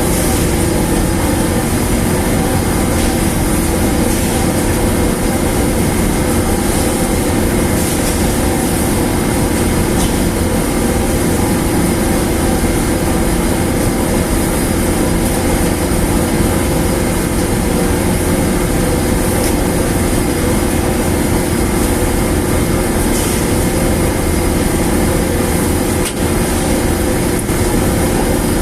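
Large machine running steadily and loudly, with a constant hum of unchanging pitch over heavy mechanical noise and a few faint clicks.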